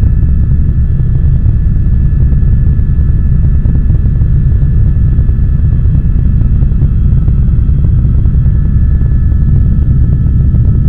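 Helicopter in cruising flight, heard from inside the cabin: a loud, steady low rotor and engine rumble with a faint high whine held on a few steady pitches.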